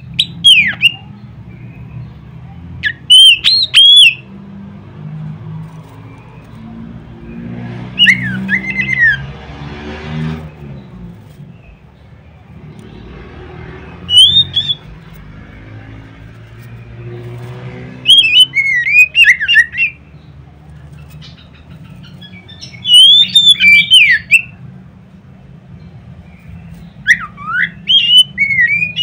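Oriental magpie-robin (kacer) singing loud, sharp whistled phrases in about seven bursts of quickly sweeping notes, a few seconds apart. A low engine drone rises and falls in the background.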